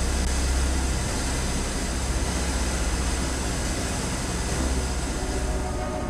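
Jet aircraft engine noise: a steady deep rumble with a broad hiss over it.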